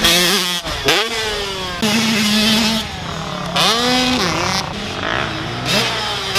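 Two-stroke dirt bike engine revving, its pitch climbing sharply and dropping back several times as the throttle is opened and closed while riding.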